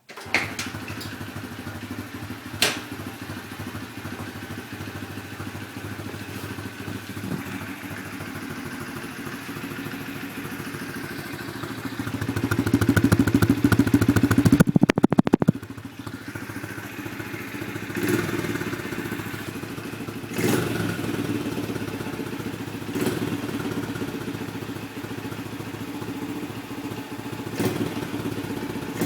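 Honda XR70 pit bike's small four-stroke single-cylinder engine on a cold start: it catches suddenly at the very beginning, idles steadily, is revved up for about three and a half seconds around the middle, then blipped briefly four times.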